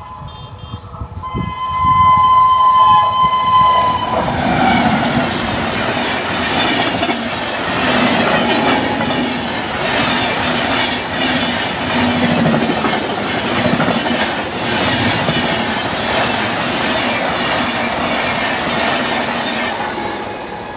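An Indian express train sounds a multi-tone horn for about the first four seconds as it reaches the level crossing. It then rushes through at high speed, its wheels clattering rhythmically over the rail joints, and the rush fades near the end as the last coaches pass.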